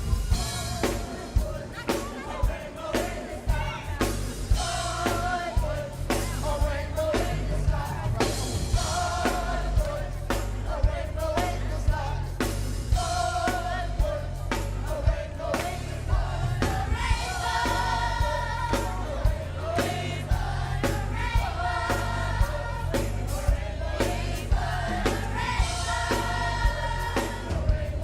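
A choir singing an upbeat gospel song over a band with bass and a steady drum-kit beat.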